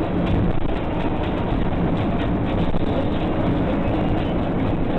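Steady vehicle driving noise: engine and road rumble with no clear event.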